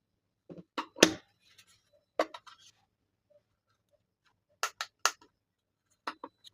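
A few sharp knocks and clicks from hard objects being handled, loudest just after a second in, with a pair a little before five seconds in and another near the end.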